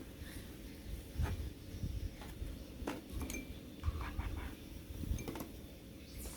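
Irregular light clinks and knocks of kitchen dishes and utensils being handled, over low thumping handling noise.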